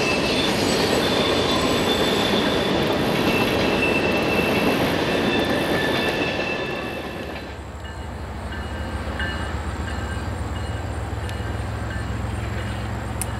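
Freight cars of a Norfolk Southern train rolling past with a steady rumble and a high, steady wheel squeal. A little over halfway through this gives way to a quieter, steady low drone that fits a diesel locomotive approaching from a distance.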